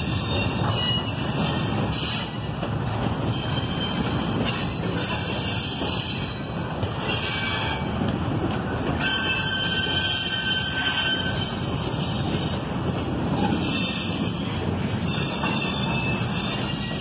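Double-stack intermodal freight cars rolling past: a steady rumble of steel wheels on rail, with high-pitched wheel squeal coming and going above it.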